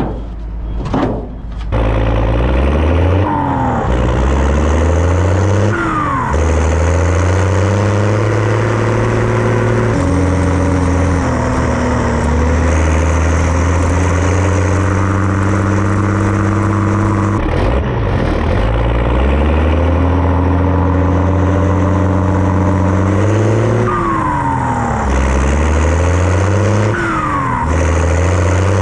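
1988 Zetor 16145 tractor's straight-piped turbocharged six-cylinder diesel running under load. Its pitch climbs and then drops sharply at each gear change, several times over. A short falling whistle from the turbo comes at several of the shifts.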